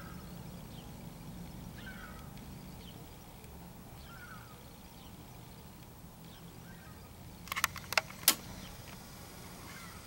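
Faint, short bird calls, about one every two seconds, over a steady low rumble, then a quick cluster of sharp clicks about seven and a half seconds in.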